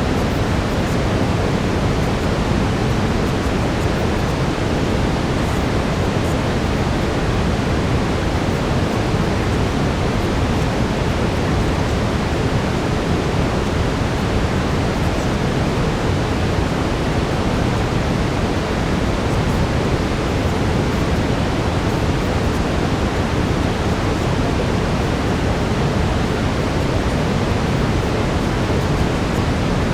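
Steady brown noise: an even, deep rushing hiss, heaviest in the low end, with no changes.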